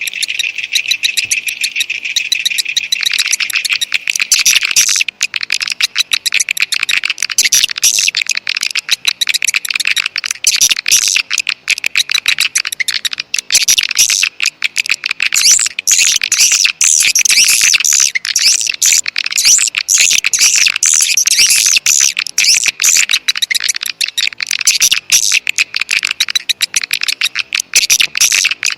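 Recorded swiftlet lure call: dense, rapid, high-pitched twittering and clicking chirps of many swiftlets, played loudly and without a break. It is a caller sound of the kind played from swiftlet houses to draw edible-nest swiftlets in to roost and nest.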